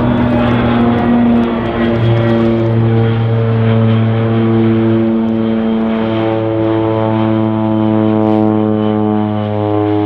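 Turboprop engines and propellers of an RCAF CC-138 Twin Otter running: a steady propeller drone made of several held tones, rougher and noisier for the first two seconds or so, with a slight drift in pitch.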